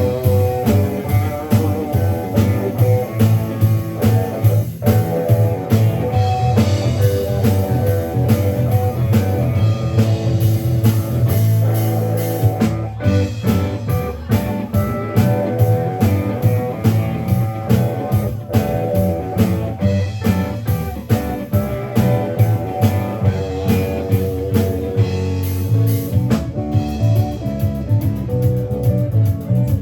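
Live rock band playing an instrumental: electric guitar lines over bass guitar and a drum kit keeping a steady beat.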